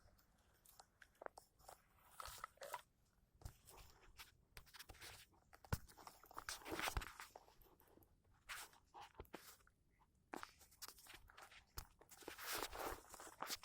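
A caged bird moving about: faint, irregular clicks, taps and short crunching scuffs, with no song.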